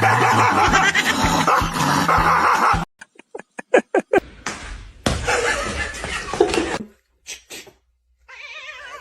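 Pet animal noises in several short bursts, broken by abrupt cuts to silence.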